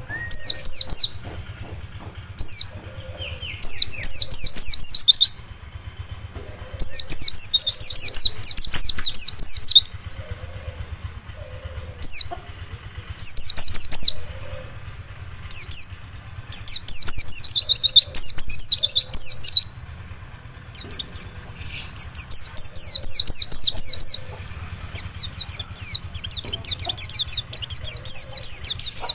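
Wild white-eye (pleci) song: rapid trains of high, quickly falling chirps in bursts of one to three seconds, repeated with short pauses, over a faint low hum. It is a lure recording meant to set a kept white-eye singing.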